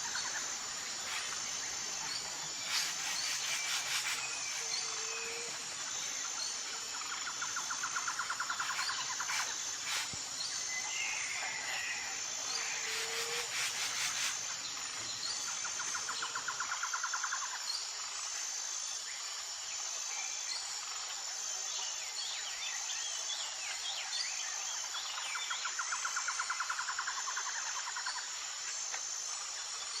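Outdoor rural ambience: a steady high insect drone, a pulsing trill that comes back every few seconds, and occasional short bird chirps.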